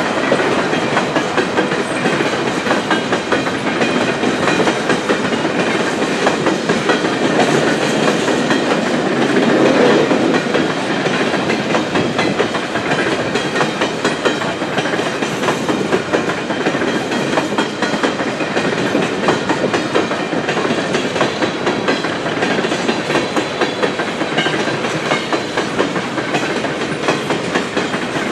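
Empty coal cars of a long freight train rolling past, steel wheels clicking in quick succession over the rail joints amid a steady rumble and rattle.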